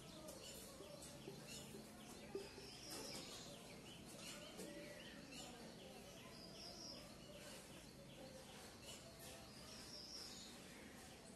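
Quiet room tone. A bird outside chirps faintly about every three to four seconds, and there is a faint scratch of a marker writing on a whiteboard.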